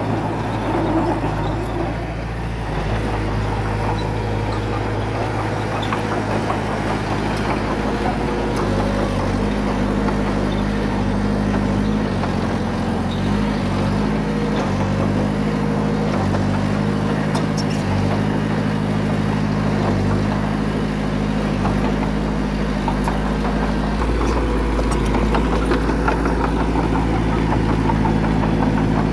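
Heavy earthmoving machine's diesel engine running, its speed shifting up and down a few times, with a few faint clicks about two-thirds of the way through.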